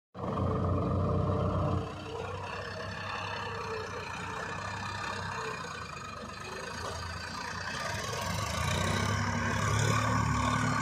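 Diesel tractor engine running steadily, louder for the first two seconds and again near the end, after a very short dropout at the very start.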